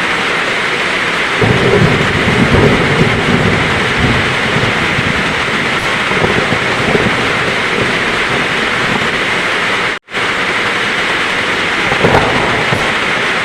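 Heavy rain falling steadily, with low rumbles of thunder swelling in about a second and a half in and again near the end. The sound drops out for an instant about ten seconds in.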